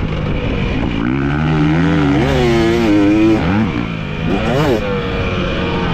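Dirt bike engine revving hard on a motocross track: pitch climbs and is held high for a couple of seconds, drops off, then a quick blip up and down.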